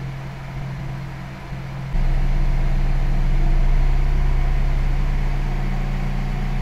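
Audi Q5 2.0 TDI four-cylinder diesel engine idling steadily, with a step up in loudness about two seconds in.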